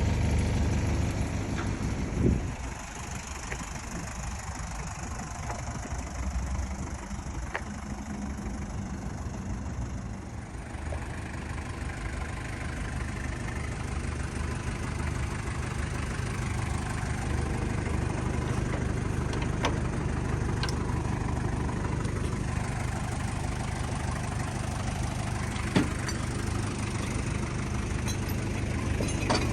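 An engine idling steadily. There is a sharp knock about two seconds in, after which it runs a little quieter, and a few light clicks follow later.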